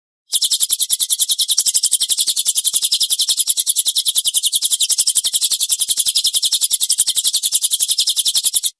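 A songbird's harsh rapid-fire trill, the 'tembakan kasar' used in bird-training recordings. High-pitched notes come about ten a second in an unbroken run of about eight seconds, which starts and cuts off abruptly.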